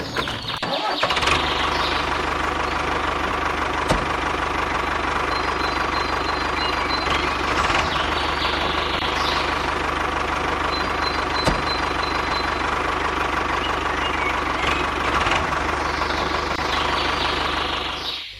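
Small engine running steadily, with a constant low hum under a dense mechanical clatter. It cuts off abruptly near the end.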